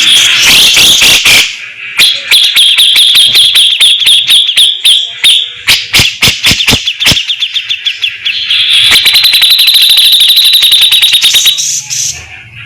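Grey-cheeked bulbul (cucak jenggot) singing loud, very fast rattling trills, the rapid harsh 'besetan' phrases. Near the middle the trill breaks into a run of separate sharp clicking notes before another long trill.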